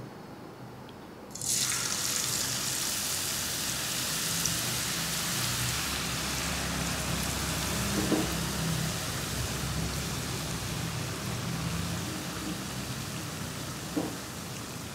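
Grated raw potato hitting hot oil in a wok: a sudden loud sizzle about a second and a half in, then a steady frying sizzle that slowly eases as the potato shreds fry.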